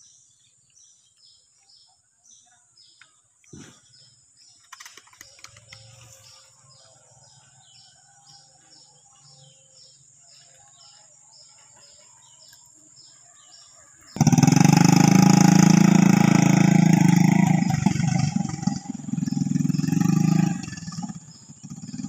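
A bird's high, regular chirps, about two a second, over faint outdoor ambience; about fourteen seconds in, a sudden loud low rumbling noise cuts in and dominates.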